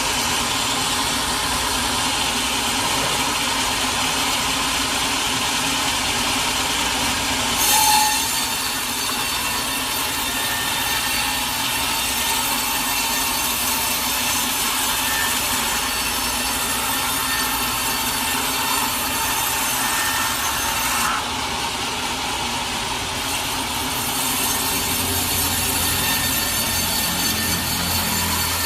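Sawmill saw cutting steadily through a large teak log, a continuous noisy rasp of blade in wood. There is a brief louder bump about eight seconds in, and the sound turns duller for a few seconds past the twenty-one-second mark.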